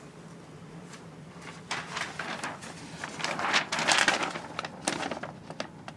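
Paper rustling and crinkling as the pages of the paper assembly manual are handled and turned, in irregular bursts beginning after a quiet second or so.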